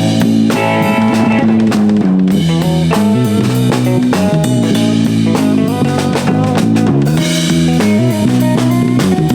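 A band playing a song on drum kit and guitar, with a steady beat and a moving low-note line.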